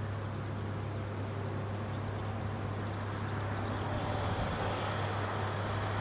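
Rice combine harvester engine running with a steady low hum, and a few faint high chirps about halfway through.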